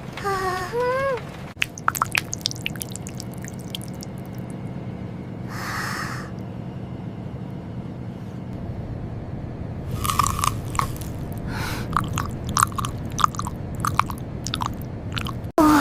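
Someone chewing and biting into crunchy food, with irregular crisp crunches that come thicker in the second half. A few short rising-and-falling tones at the very start, over a steady low hum.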